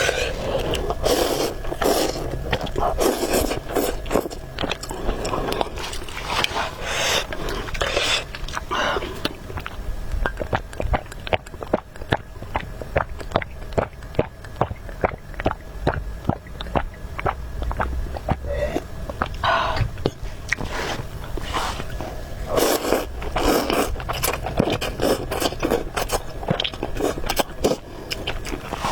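Close-up eating of spicy noodle soup: chewing with sharp, rapid mouth smacks, about three a second through the middle, and longer noodle slurps near the start and again near the end.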